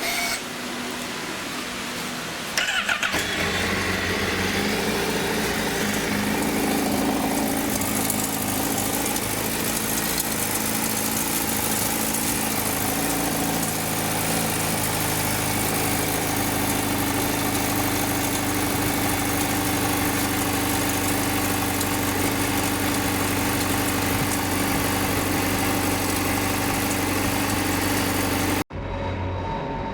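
Honda CBR1000RR-R's inline-four engine is started about two and a half seconds in and then idles steadily, until it stops suddenly near the end. A dry metallic rattle ('karakara') is heard with it, which the owner traces to the catalytic converter breaking up inside.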